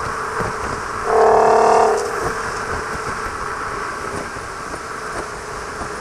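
Audi TT Mk2 with a swapped-in 3.6 VR6, driving with a Varex valved exhaust. Steady road and engine noise runs throughout. About a second in, a louder, steady exhaust note swells for roughly a second.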